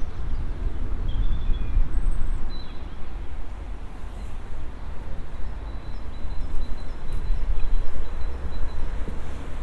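Outdoor ambience dominated by a rough, uneven low rumble. A few faint, short, high bird chirps come about a second and two seconds in.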